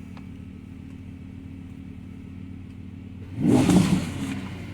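Lamborghini Huracán LP580's V10 idling steadily, with one short, loud rev blip about three and a half seconds in that falls back to idle.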